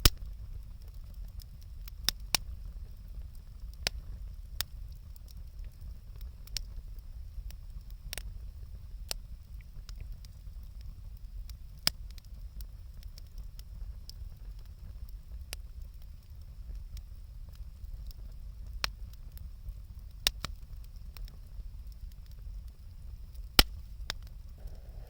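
Wood bonfire crackling: sharp, irregular pops and snaps a second or so apart over a steady low rumble.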